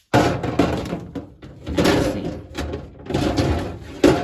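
Plastic fridge drawer and plastic baskets knocking, rattling and scraping as they are handled and fitted, with a sharp knock near the end.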